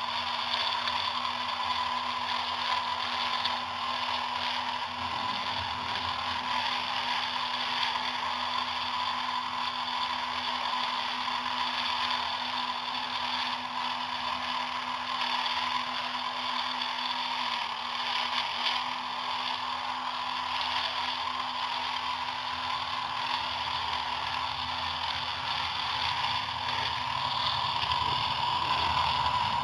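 Small electric toy motor running a miniature DIY model machine at a steady speed, with a constant whine and a gritty rattle from its small gears.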